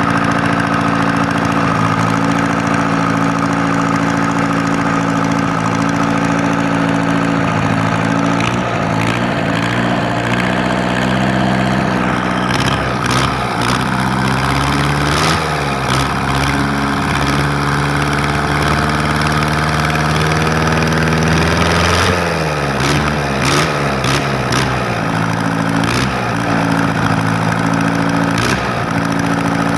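Engine idling, its speed raised and let fall a few times in the middle before it settles back to a steady idle, with occasional sharp clicks.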